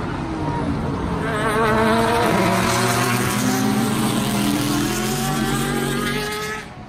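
A car engine revving up hard, its pitch climbing over a few seconds and then holding high before cutting off sharply near the end.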